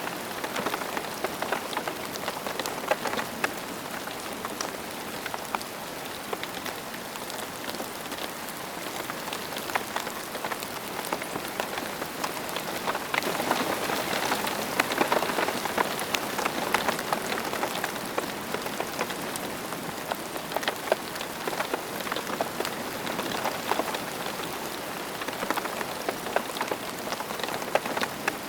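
Steady rain falling, an even hiss with many distinct drops ticking close by. It grows a little heavier about halfway through.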